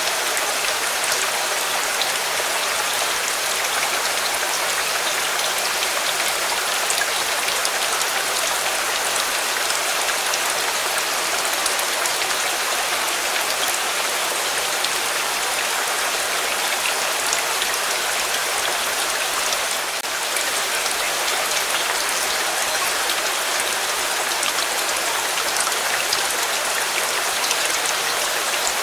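Steady, even rainfall pattering on a surface, with scattered small ticks of individual drops.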